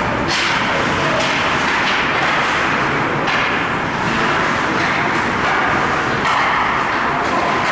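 Ice hockey game noise in a rink: a steady wash of skating and arena noise, broken by a few sharp knocks about three seconds apart.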